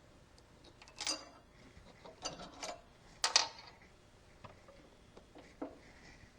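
Hand work on a zero-turn mower's lap-bar steering linkage: a series of short sharp clicks and knocks of parts and tools being handled as a part is worked into place, the loudest about three seconds in.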